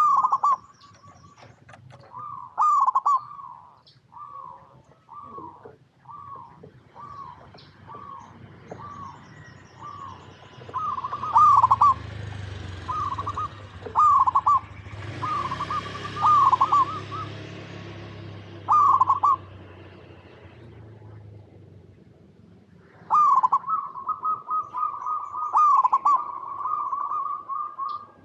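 Zebra dove (perkutut) singing: a string of short, bubbling cooing notes, then a pause of a few seconds, then a fast, unbroken run of notes near the end. Faint high chirps of small birds and a low rumble sit underneath.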